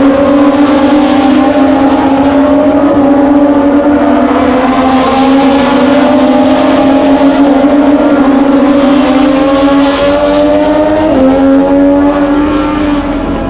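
Moto2 racing motorcycles' Triumph 765 cc three-cylinder engines running at high revs, a sustained engine note that dips in pitch about eleven seconds in and falls off near the end.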